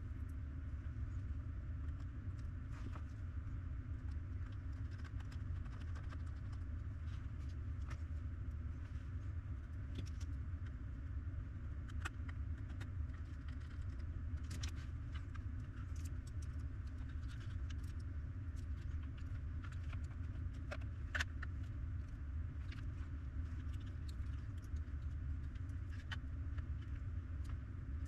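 Steady low hum with scattered light clicks and taps, like small parts and tools being handled while a small electronic device is reassembled.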